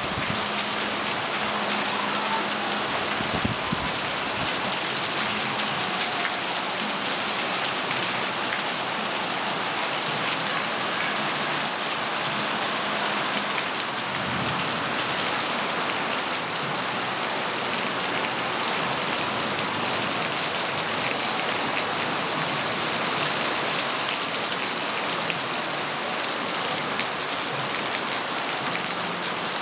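Heavy rain pouring steadily, a dense even hiss of water.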